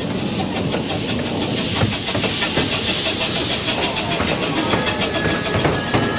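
Miniature railway carriage running along the track, wheels rumbling and clattering, rising to a rushing hiss about two to four seconds in as the train passes through a corrugated metal tunnel.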